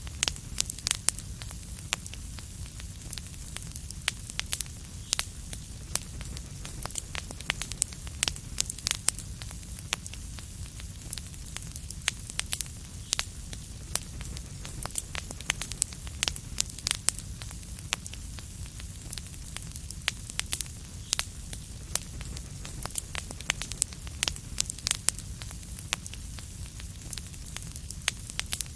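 Wood fire crackling steadily: irregular sharp pops and snaps, several a second, over a low rumble and a soft hiss.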